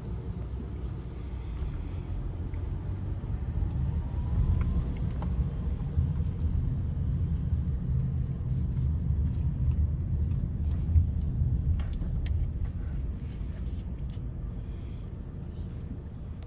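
A car running with a steady low rumble, with a few faint clicks over it.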